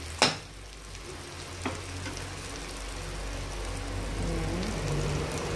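Onion, garlic, lemongrass and chili sizzling in butter in a metal wok, with a steady frying hiss that grows slightly louder. A metal spatula clinks sharply against the pan just after the start, and more faintly about a second and a half in.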